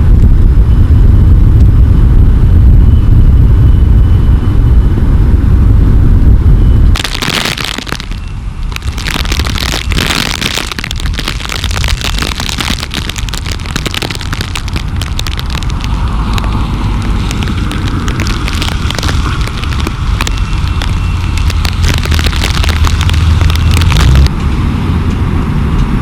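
Blizzard wind buffeting the microphone: a heavy low rumble, then about seven seconds in it turns to dense crackling and popping that continues over a lower rumble.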